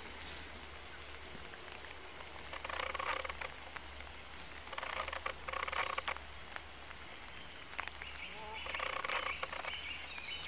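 Harsh bird calls in three bursts of about a second each, with a few faint chirps between them.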